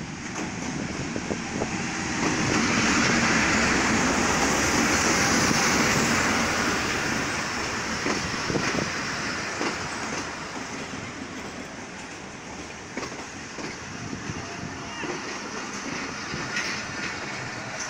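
Diesel-hauled passenger train running past along a station platform: the locomotive going by is loudest a couple of seconds in, then the coaches roll past with a lower steady rumble and scattered wheel knocks.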